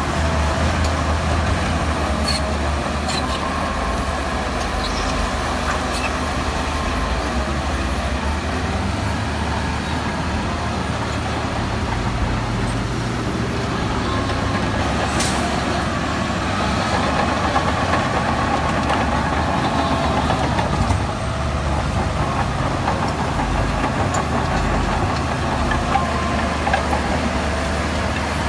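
Heavy diesel earthmoving machinery running steadily with a deep engine rumble, and a few sharp clicks or clanks now and then.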